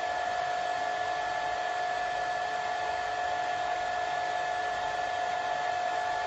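Hair dryer running continuously: a steady rush of air with a constant whine from its motor and fan, unchanging in pitch and level.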